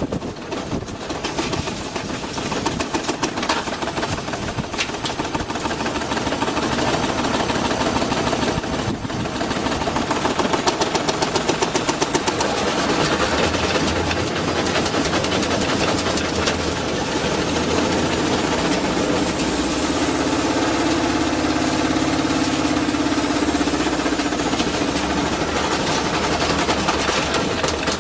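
Washing machine spinning with a brick loose in the drum: loud, continuous knocking and rattling, with a burst of rapid regular bangs about ten seconds in and a humming drone from the spinning drum in the second half.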